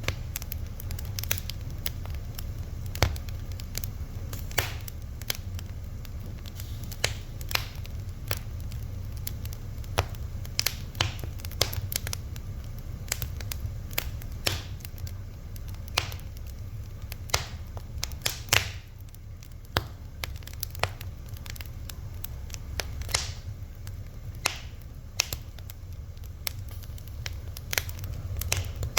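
Wood fire crackling, with irregular sharp pops and snaps several times a second over a steady low rumble of burning.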